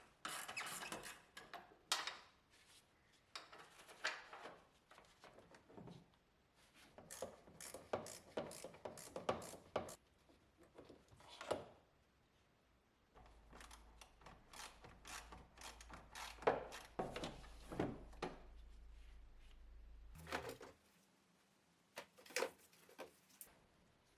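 Hand tools and parts being handled during engine disassembly: scattered clicks, taps and rubbing, with a low steady hum for several seconds in the second half.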